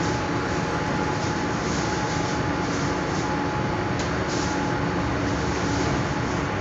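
Running noise of a commuter electric train in motion, heard from inside the carriage: a steady rumble and hiss with a faint steady whine. A single sharp click comes about four seconds in.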